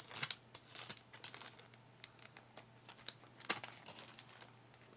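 Handling noises: small items being picked up and set down, with scattered light clicks and brief rustling, the sharpest clicks about a third of a second in, at two seconds, and at three and a half seconds.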